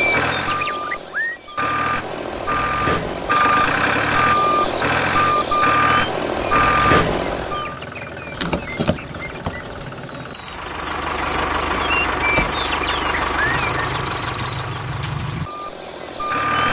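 A vehicle's reversing alarm beeping a steady tone about one and a half times a second over engine noise. The beeping stops about seven seconds in; a steadier engine noise runs later, and the beeping starts again near the end.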